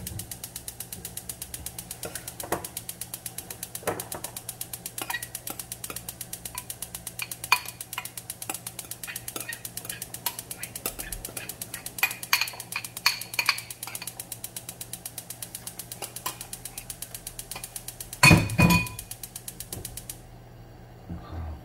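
A mechanism clicking rapidly and evenly over a low steady hum, stopping suddenly about twenty seconds in. A louder clatter comes just before the stop.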